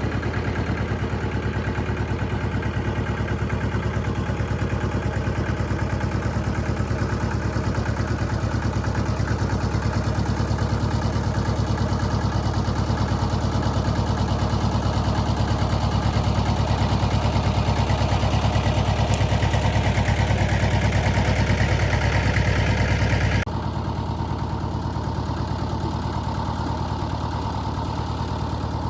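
A vehicle engine running steadily with a fast, even pulse. About three-quarters of the way through, the sound drops suddenly to a quieter, thinner running.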